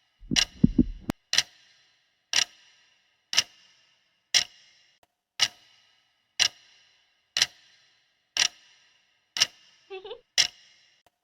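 Clock ticking, one sharp tick about every second, with a short low rumble about a quarter of a second in.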